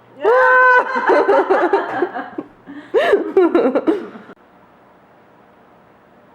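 A person laughing in two bursts: a longer one that opens on a held high note, then a shorter one about three seconds in that stops suddenly.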